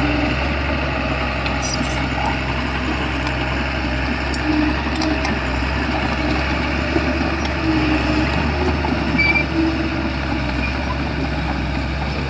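Shantui bulldozer's diesel engine running steadily, with a few faint clicks over it.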